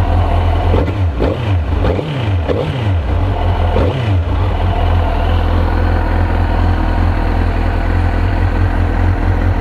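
2002 Suzuki GSX-R 1000's inline-four engine running. It is revved in a few quick throttle blips, each dropping back, and then settles into a steady idle about four seconds in, warming up on its first run after a fuel-system cleaning, new plugs and a new air filter.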